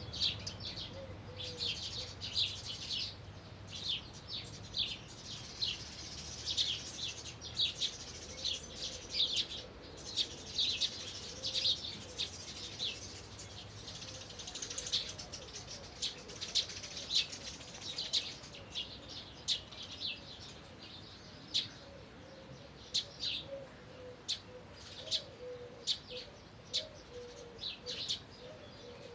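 Small songbirds chirping and twittering in quick, high runs of short notes, dense in the first half and thinning to scattered chirps later.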